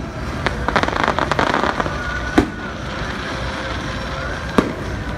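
Fireworks going off: a sharp bang, then a rapid run of crackles about a second in, a loud single bang about halfway, and another bang near the end.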